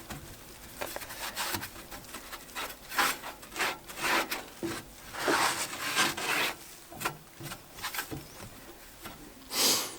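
Rubbing strokes on the sooty heat-resistant glass of a wood-burning stove door, cleaning off the last soot with sunflower oil. The strokes come irregularly, one after another, with the strongest near the end.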